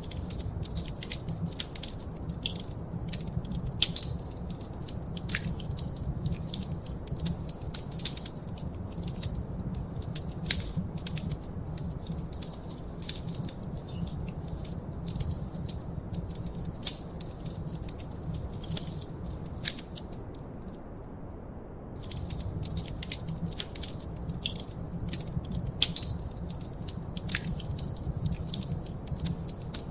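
Wood fire crackling in a fireplace: many irregular sharp pops and snaps over a steady low rumble. The crackling drops out for about a second around two-thirds of the way through, then resumes.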